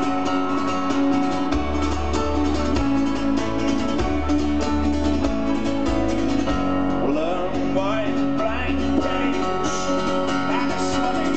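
Live band playing an instrumental passage: strummed acoustic guitar over a held chord, with low bass notes coming in about a second and a half in. A few rising sliding notes follow about two-thirds of the way through.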